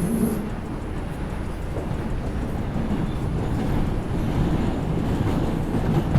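Interior of an R142 subway car running between stations: a steady rumble of wheels on track and traction motors, with a low hum dropping away just after the start.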